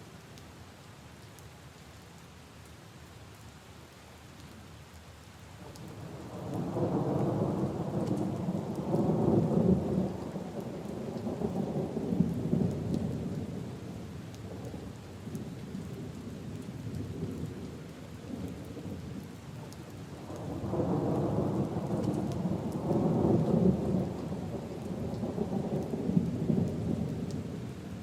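Steady rain with two long rolls of thunder. The first rumble builds about six seconds in and rolls on for several seconds; the second comes about twenty seconds in.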